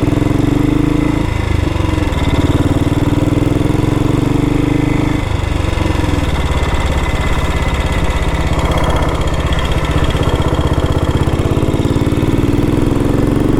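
1962 Matchless G80CS scrambler's 500 cc single-cylinder four-stroke engine running on the road. Its note drops about five seconds in and rises again near the end.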